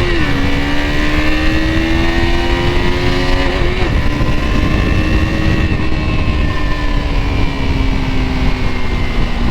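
KTM RC 200's single-cylinder engine running while the bike is ridden, its pitch stepping down sharply at gear changes near the start and again about four seconds in, climbing between them and then slowly easing off. A heavy low wind rumble runs under it.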